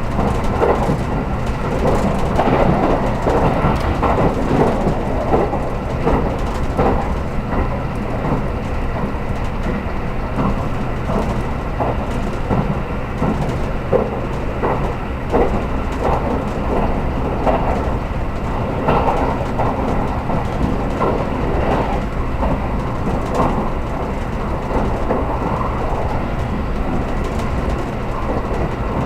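Cabin noise of a JR Kyushu 783 series electric train running: a steady rumble of wheels on rail with irregular sharp clicks from the track.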